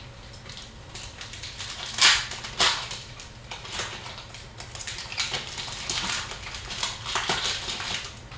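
Hockey card packs being torn open and the cards handled: crinkling wrapper rips and rustles, two loud ones about two seconds in, then a run of lighter rustles and flicks.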